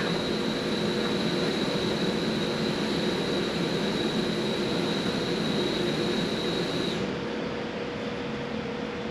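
Steady machine noise with a high whine, which cuts off about seven seconds in, leaving a lower steady hum.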